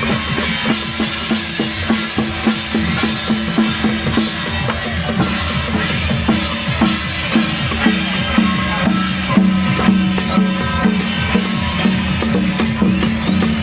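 Loud music with a busy, steady drum beat and other percussion over sustained tones.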